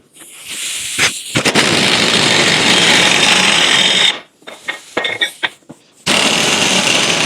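Power wrench running the nut down onto the pitman arm of a Ross steering box: one run of about four seconds, a few sharp clicks, then a second run starting about six seconds in.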